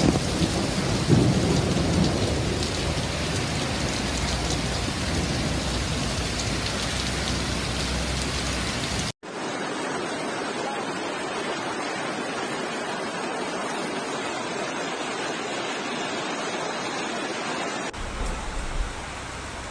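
Heavy storm downpour: a dense, steady hiss of rain pouring down. It cuts abruptly about nine seconds in to another stretch of downpour with less low rumble.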